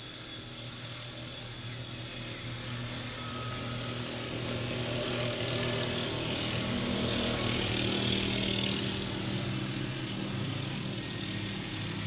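A motor engine running steadily with a low hum, growing louder through the middle and easing off a little near the end.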